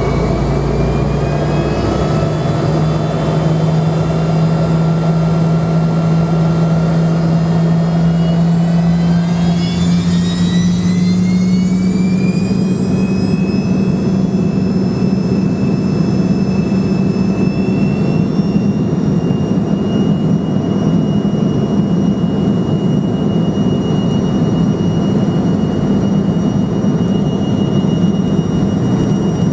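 Fokker F28's twin Rolls-Royce Spey turbofans spooling up to takeoff power, heard from the cabin. Several whining tones rise together over the first dozen seconds or so, then hold steady over a loud, even rush.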